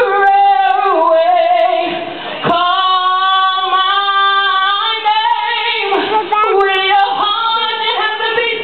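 A woman singing solo, long held notes with sliding, bending runs between them, and no clear words.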